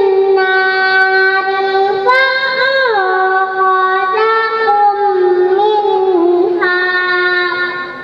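A young girl's voice reciting the Quran in melodic tilawah style, holding long drawn-out notes that step up and down with gliding ornaments. The voice stops shortly before the end.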